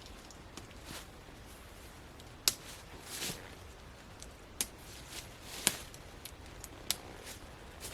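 Tent clips being snapped onto the poles: several sharp clicks a second or two apart, with soft rustling of tent fabric between them.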